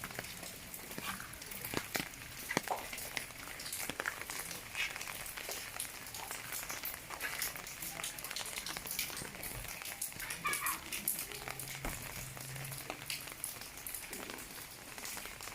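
Rain falling, with many separate drops ticking sharply and irregularly over a steady hiss.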